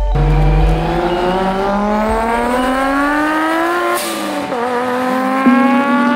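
Car engine at high revs under load, its pitch climbing steadily for about four seconds. After a sharp click the pitch drops, then climbs again more slowly.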